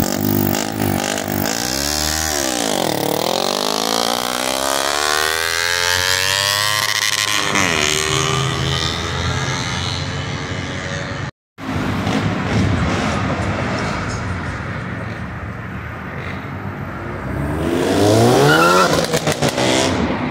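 Performance car engines accelerating hard: the pitch dips, then climbs steadily for several seconds before dropping at a gear change. After a brief dropout, another car revs up near the end with a quick run of sharp pops.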